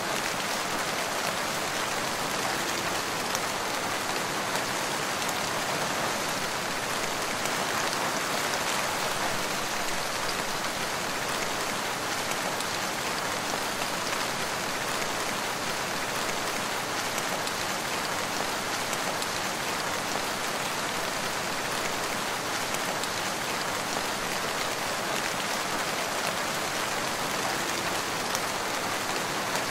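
Steady rain falling: an even hiss of many drops that holds constant throughout.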